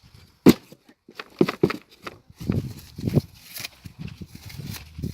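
A small hammer striking a cardboard box in irregular blows. The hardest blow lands about half a second in, followed by a run of lighter knocks.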